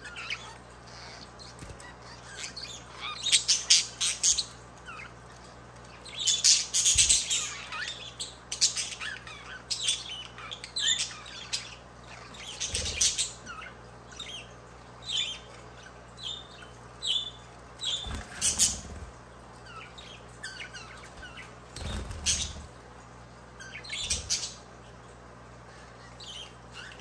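Budgerigars chirping and warbling in short, irregular bursts of calls, with a few soft thumps.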